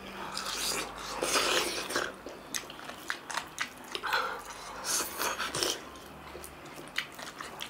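Two people eating with their hands, chewing and smacking their lips on soft kodo millet dhido, meat and greens: wet mouth sounds with scattered short clicks, coming in irregular bursts.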